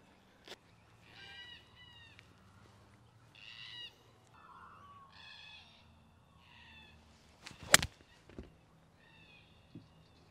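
A bird calling again and again outdoors: about five drawn-out cries, each falling in pitch. A single sharp knock comes near the end and is the loudest sound.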